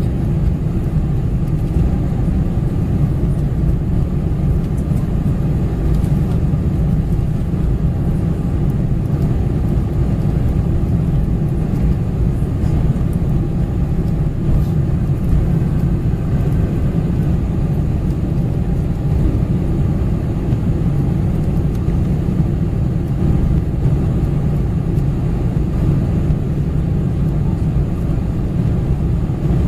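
Steady cabin noise inside a Boeing 747-400 airliner: a deep, even rumble of engines and rushing air that does not change.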